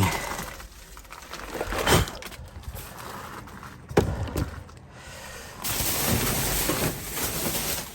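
Rummaging through trash in a dumpster: a couple of sharp knocks as boxes and items are shifted, then a steady rustling hiss from about two-thirds of the way in.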